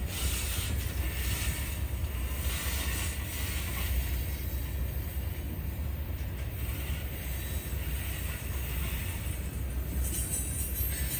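Freight train of tank cars rolling past at close range: a steady low rumble of steel wheels on the rail, with faint clicks of the wheels over the rail joints.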